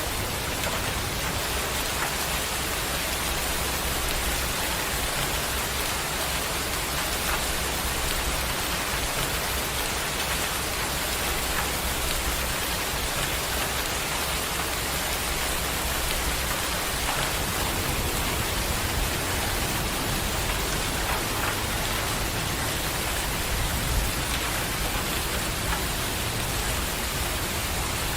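Steady, heavy rain falling, with many small drop ticks in a continuous hiss and a low rumble underneath that swells a little in the second half.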